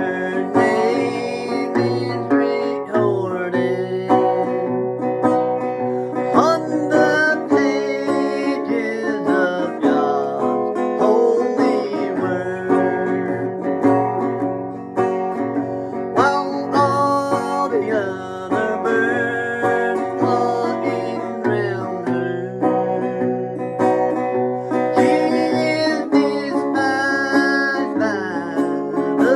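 Country music played on plucked guitar, an instrumental passage between sung verses, with notes that slide in pitch.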